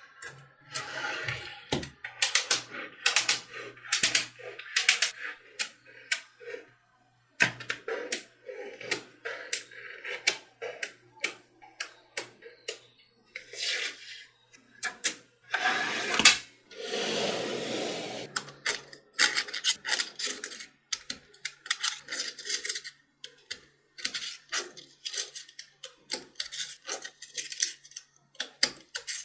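Small magnetic balls clicking as they snap onto one another, an irregular run of sharp clicks, with a couple of seconds of continuous rattling about halfway through.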